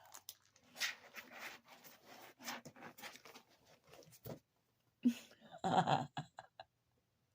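A cat scratching and rustling about as it climbs into a box, in irregular scratches and crinkles, with a louder burst of rustling about five seconds in.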